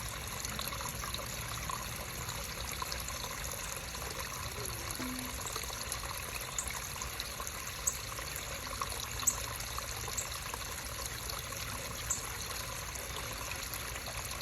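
Small creek of shallow water trickling and babbling over stones, a steady even rush with a few faint brief ticks now and then.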